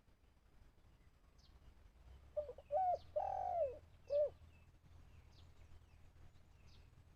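Spotted dove cooing once, a phrase of four low notes: two short, then a longer one, then a short one, starting about two seconds in. Faint thin chirps of small birds sound around it.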